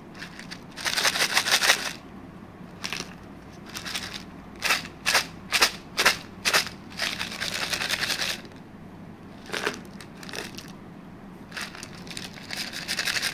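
Chewing on crispy dry fried-anchovy sambal (sambal ikan bilis kering): crunching in clusters, with a run of separate bites about two a second through the middle, the sound of a dry, crisp texture.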